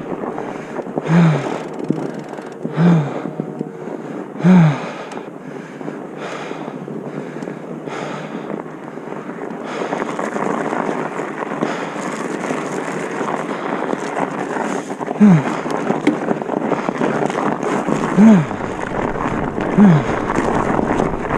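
Wind noise on the microphone of a rider moving down a ski run, a steady rushing that grows louder about halfway through. It is broken by about seven short low sounds that fall in pitch.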